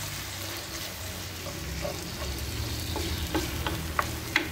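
Chopped onion, green onion and cherry tomatoes sizzling in olive oil in a clay tagine while a wooden spoon stirs them. The spoon knocks against the clay several times in the second half, sharpest twice near the end.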